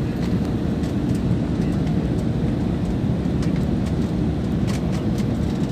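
Passenger aircraft cabin noise: the steady low drone of the engines and airflow, heard from inside the cabin, with a few faint clicks.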